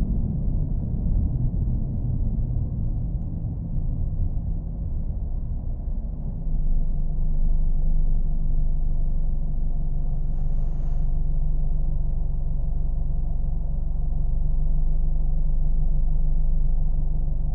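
Car engine running steadily as a low rumble, growing a little louder about six and a half seconds in.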